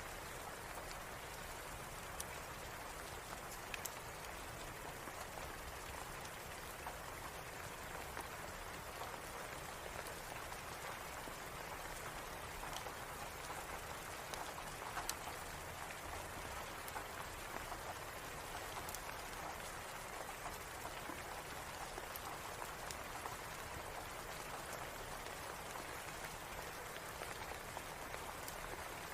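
Steady rain falling, an even patter with scattered small clicks.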